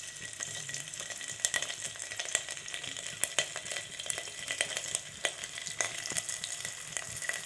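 Small pieces of fresh coconut frying in hot ghee in an aluminium pot: a steady sizzle with frequent sharp crackles and pops.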